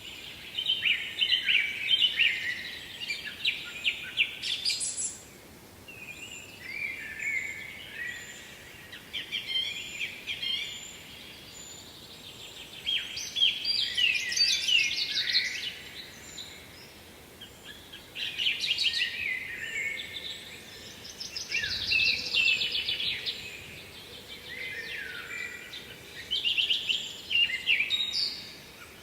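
A songbird singing, repeating short phrases of fast trills every few seconds, with brief pauses between them. Faint steady background noise lies underneath.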